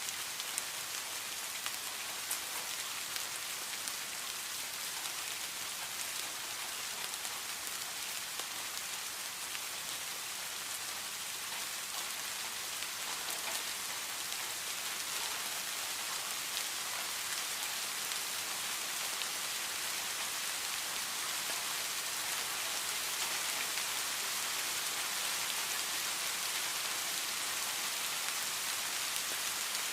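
Steady heavy rain falling, a dense even hiss with scattered individual drop ticks, growing slightly louder in the second half.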